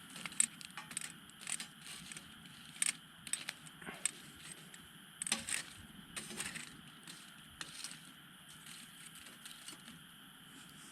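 Wood campfire crackling: sharp, irregular pops and snaps over a low steady hiss, thicker in the first half and sparser near the end.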